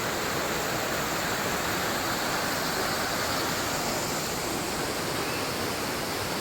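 Waterfall rushing: an even, unbroken hiss of falling water, with no change in level.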